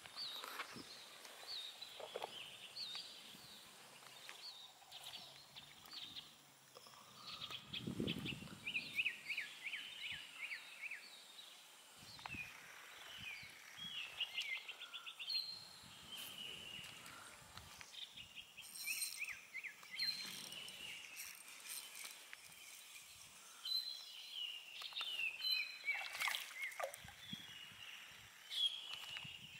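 Birds calling: runs of short, quick falling notes repeated over and over, over faint outdoor background noise.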